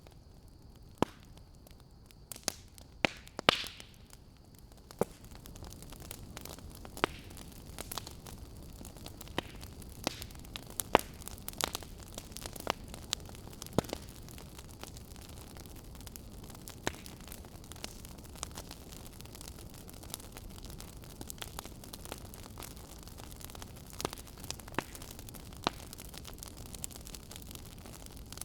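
Wood fire in a fireplace crackling: irregular sharp pops and snaps, a few of them louder, over a steady low hiss of burning.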